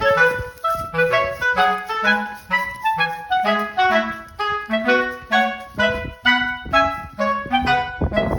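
Background music: an upbeat instrumental tune of short, bouncy notes, about three or four a second, over a bass line and a regular beat.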